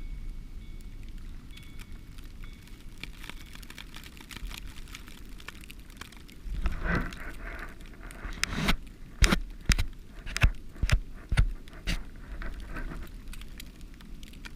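Wind rumbling on the microphone in a blizzard. A scuffing rustle comes about halfway through, then a quick run of sharp knocks and thumps over the next few seconds.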